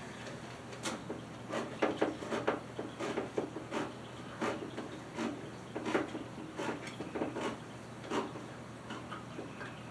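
Scattered light clicks and knocks of kitchen utensils and containers being handled, spaced irregularly about a second apart.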